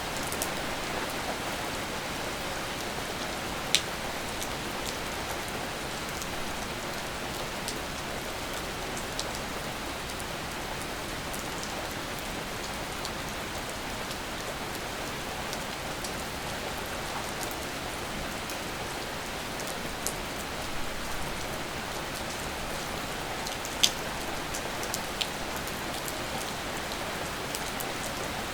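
Steady rain falling, a continuous even hiss, with occasional sharp drops striking a surface; two louder drop hits stand out, at about 4 seconds and about 24 seconds in.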